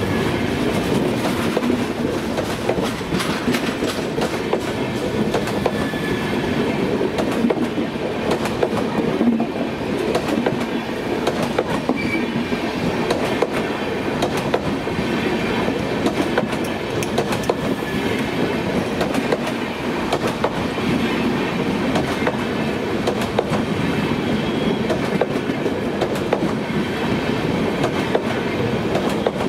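Passenger coaches of a locomotive-hauled Indian Railways train rolling past, their wheels rumbling steadily and clattering over rail joints.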